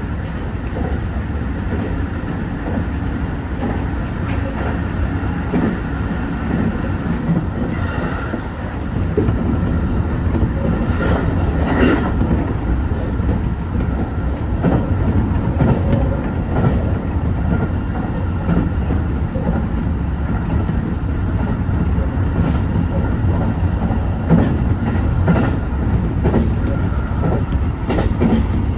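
HB-E210 series hybrid railcar running along the line, its wheels clicking over rail joints over a steady running hum. The running noise grows louder about nine seconds in.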